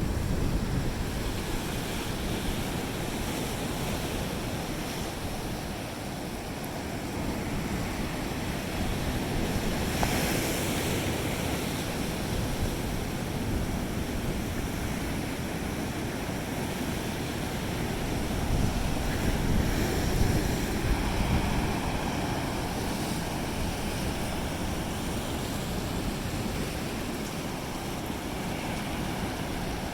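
Ocean waves breaking and washing on a beach, a steady surf noise that swells and eases, a louder wave about ten seconds in and again around twenty seconds, with wind buffeting the microphone.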